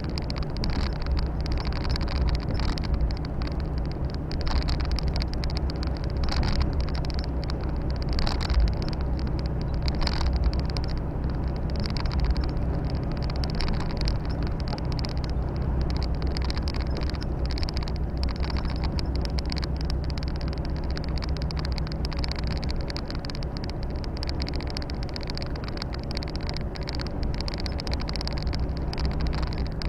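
Volvo FH 460 truck's six-cylinder diesel engine running steadily at cruise, heard from inside the cab with road and tyre noise. A few brief thumps from bumps in the road, the loudest about a third of the way in.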